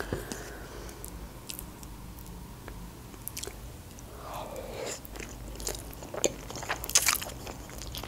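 Close-miked eating sounds of a person taking a forkful of minced-meat lasagna and chewing it: wet mouth clicks and smacks, more frequent in the second half.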